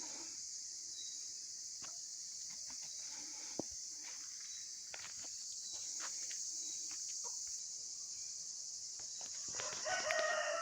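Chickens clucking faintly among scattered small clicks, then a rooster crows loudly near the end, all over a steady high hiss.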